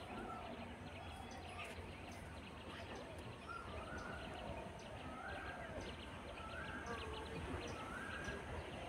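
Birds calling and chirping over a faint low background hum. A short call repeats about once a second, with quick high chirps between.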